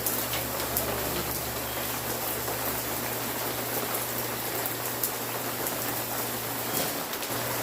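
Steady rain falling, an even hiss with scattered sharper drop ticks, over a faint steady low hum.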